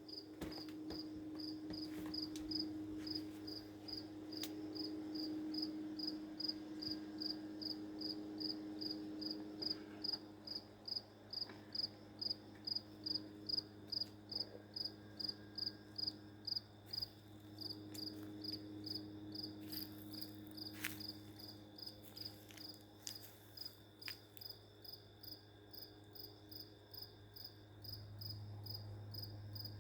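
A cricket chirping in a steady, even rhythm, about two high-pitched chirps a second, going on without pause.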